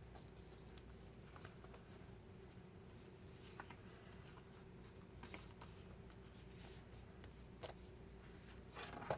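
Near silence: faint paper handling as an envelope flap is folded over and pressed down, with a few soft, scattered clicks over a faint steady hum.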